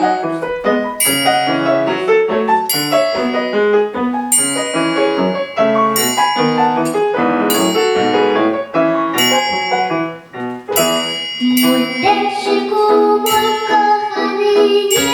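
Piano playing a song's introduction, note by note. A singing voice enters near the end.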